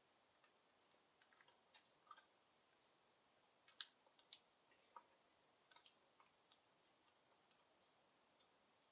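Budgies pecking at chopped fruit and vegetables: about twenty sharp, irregular little clicks of their beaks against the food and bowl, over an otherwise quiet background.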